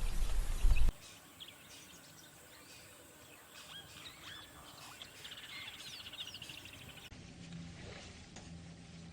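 A loud, low noise for about the first second, then an abrupt cut to faint songbird chirps and calls, including a rapid high trill. Near the end it switches to a quiet low hum.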